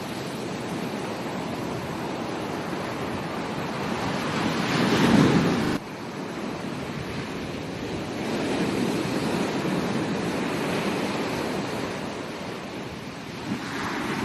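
Ocean surf washing onto a beach in successive waves. One wave builds to a loud surge about five seconds in and cuts off abruptly, and another swells more gently a few seconds later.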